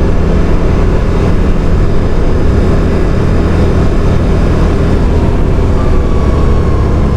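CFMoto CForce 850 XC Touring quad bike's V-twin engine running steadily under way at road speed. A thin whine falls slowly in pitch near the end.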